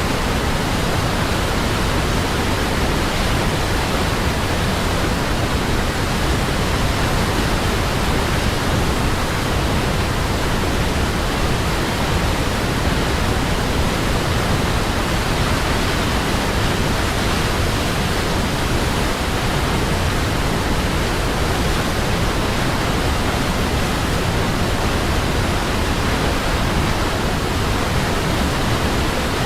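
Waterfall: a steady, unbroken rush of falling water, even and constant throughout.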